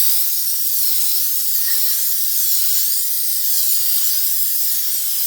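Aerosol can of Rust-Oleum Appliance Epoxy spray paint hissing in one long continuous spray, its tone wavering slowly up and down.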